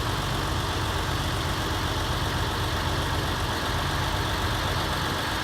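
Heavy vehicle engine idling steadily with a low, even throb.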